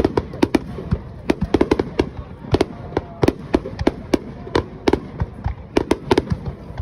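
Fireworks display: a rapid, irregular string of sharp shell bursts, several a second, with no break.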